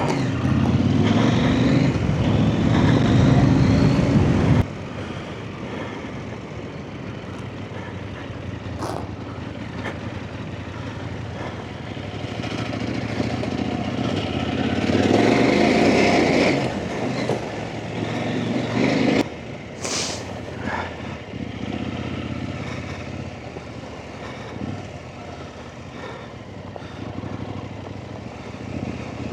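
Trail motorcycle engine running as the bike is ridden. It is loud for the first few seconds, drops off suddenly, then swells again under throttle in the middle, with a sharp knock about twenty seconds in.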